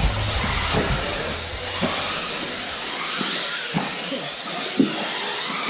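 Electric RC buggies running on the track: a steady high hiss and whine of motors and tyres. A couple of short sharp knocks come in the second half.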